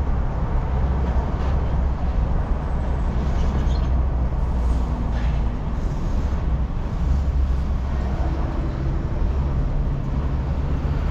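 Road and engine noise heard from inside a moving car's cabin: a steady deep rumble with an even tyre hiss above it.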